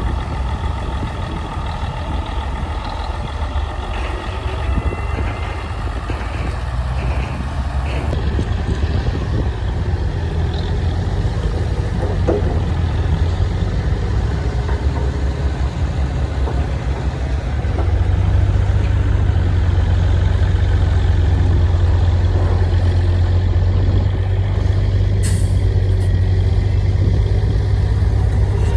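Heavy diesel engine of earthmoving machinery running with a deep, steady rumble that grows louder about two-thirds of the way through. Near the end there is a brief, sharp hiss.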